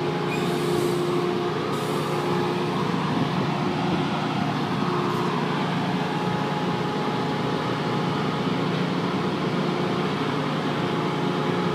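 Tri-Rail BL36PH diesel locomotive running steadily while the train stands still: an even engine drone, with a faint hiss in the first second or two.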